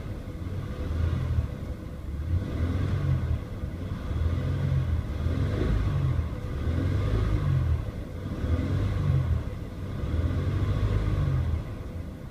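2003 Ford Taurus 3.0-litre overhead-valve V6 running smoothly, its low rumble rising and falling in loudness about eight times in a row.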